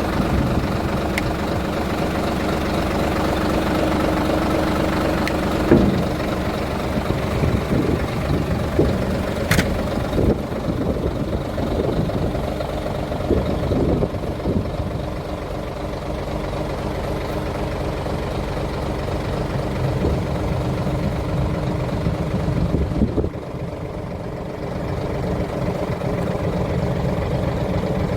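Scania 93H truck's diesel engine idling steadily, with a few short knocks and clicks over it.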